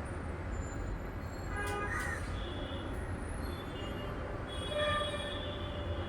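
Steady low rumble with a noisy haze, thin high-pitched squeals and a few short chirps about two seconds in.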